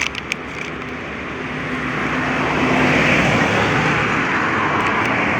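Road traffic: a motor vehicle going by, its noise building over the first few seconds and then holding steady.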